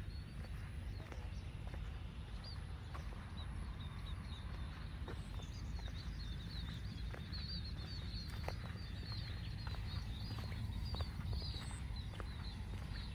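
Footsteps of a person walking on a path, about one or two steps a second, over a low steady rumble. From a couple of seconds in, small birds twitter in quick, high-pitched runs.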